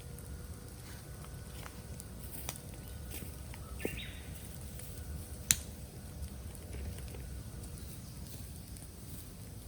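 Bamboo burning in a bonfire, crackling with scattered sharp snaps and one loud crack about five and a half seconds in.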